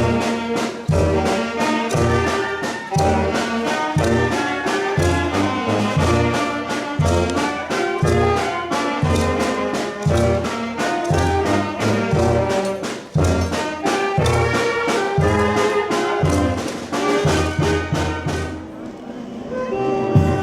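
Brass band music: trumpets and trombones playing a lively tune over a steady beat of bass and drums. The music thins out near the end.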